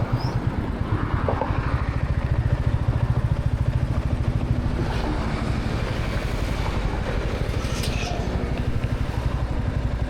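Royal Enfield Classic 350's single-cylinder engine running steadily under way, its exhaust giving an even low pulsing beat.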